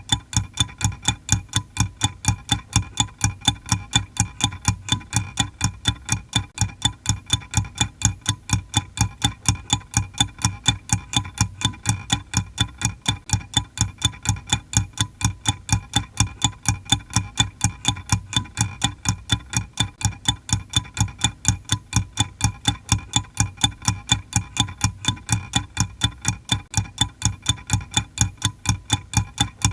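Clock ticking steadily: rapid, evenly spaced ticks, several a second, with no change in pace or level.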